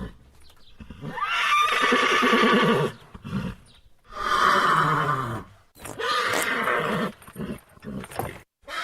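Horse neighing several times in a row: three long, quavering whinnies, then a few shorter calls near the end.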